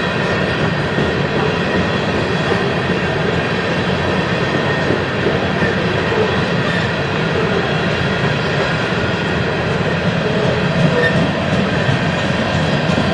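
BNSF freight train's cars rolling past on the rails, a steady, unbroken rolling noise.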